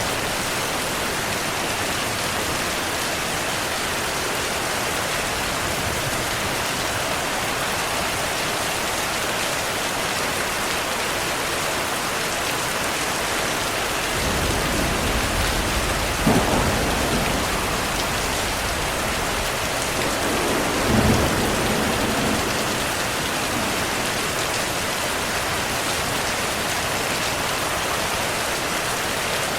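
Steady heavy rain hissing throughout, with thunder rumbling in from about halfway: two louder rolls, one shortly after and another about five seconds later, then fading back to rain alone.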